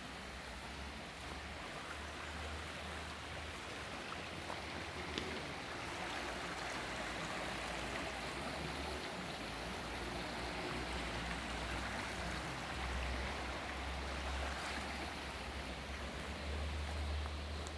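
Waterfall water rushing steadily, with a low rumble underneath that swells and fades several times.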